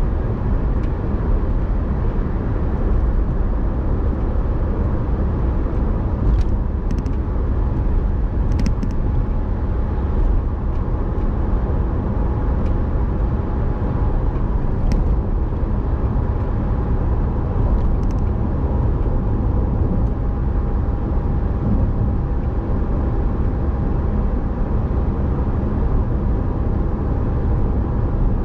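A car driving along with a steady low rumble of engine and road noise, and a few faint ticks scattered through it.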